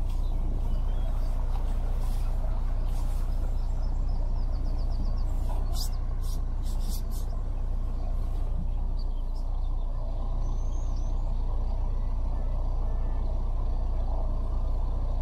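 Narrowboat engine running steadily at an even pace.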